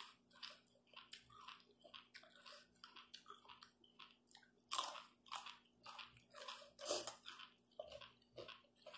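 A person chewing a mouthful of chicken-foot salad and fresh greens close to the microphone: a crisp crunch every half second or so, the loudest about five and seven seconds in.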